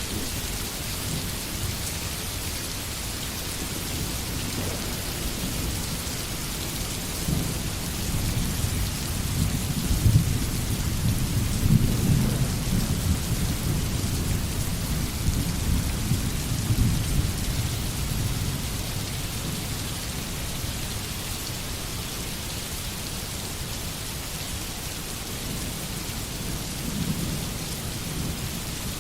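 Steady rain hiss with thunder rumbling low underneath, swelling about a quarter of the way in, peaking near the middle and dying away, with a brief smaller rumble near the end.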